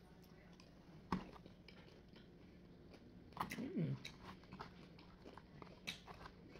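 A person chewing a mouthful of sauced fried chicken nugget, quietly, with a few faint mouth clicks. There is one brief, louder sliding sound about halfway through.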